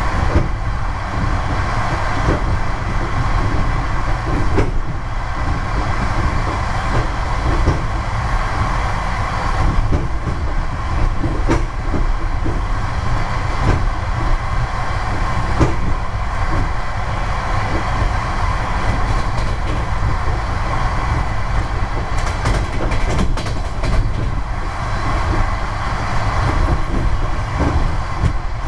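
Train carriage running at speed: a steady rumble of wheels on the rails, broken by irregular clicks and knocks.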